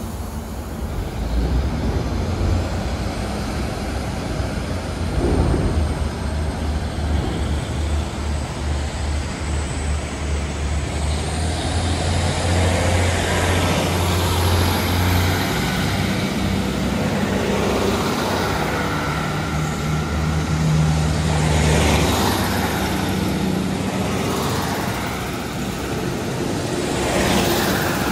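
Passenger train running at a station platform: a steady low drone whose pitch steps up partway through, with a faint high whine that rises about eleven seconds in.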